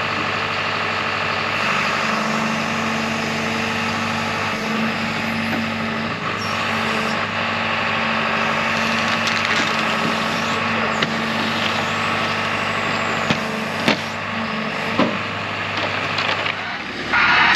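The heavy diesel engine of a 55,000 lb JCB excavator running steadily under load as the machine travels, with a few sharp knocks.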